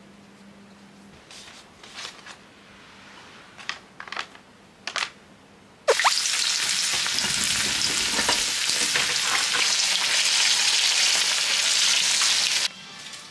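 A few short scratchy strokes of a paintbrush on a picture frame. About six seconds in, a much louder, steady sizzle of food deep-frying in oil in a small rectangular pan takes over, and it cuts off abruptly near the end.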